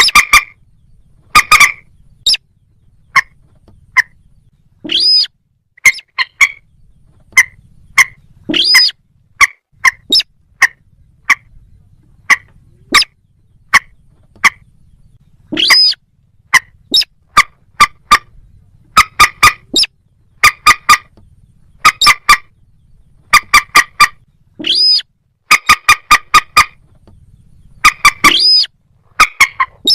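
Moorhen and little crake calls: short, sharp clucking notes in quick runs of several at a time, broken by a longer call that swoops up and back down about five times.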